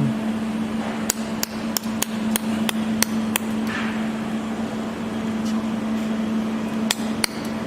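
Pulsed laser welding machine firing: a row of sharp clicks about three a second, then two more near the end, over a steady electrical hum from the machine.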